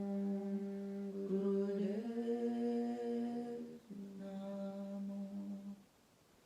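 A voice humming a long, steady chanted note. It steps up in pitch about two seconds in, drops back to the first note a couple of seconds later, and stops shortly before the end.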